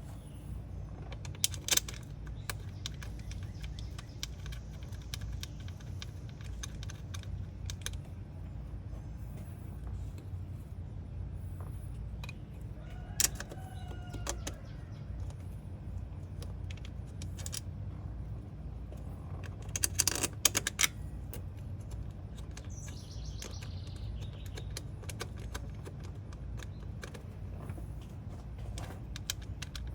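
Scattered light clicks and metallic clinks of hand tools and parts being handled at an engine, over a steady low hum, with a burst of sharper clicks about twenty seconds in and a short chirp a little before.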